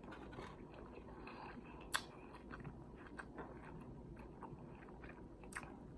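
Faint close-up chewing of a mouthful of sausage dog with coleslaw: soft wet smacks and small mouth clicks, with one sharper click about two seconds in and another near the end.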